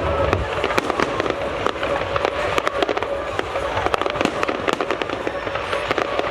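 Fireworks display: a dense, continuous barrage of crackling bursts and sharp pops, many overlapping irregularly.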